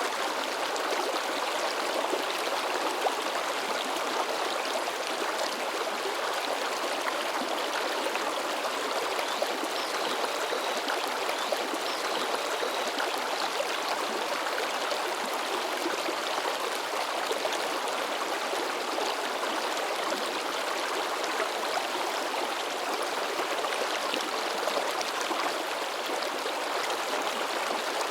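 A shallow mountain river babbling and splashing over rocks, a steady, unbroken rush of running water.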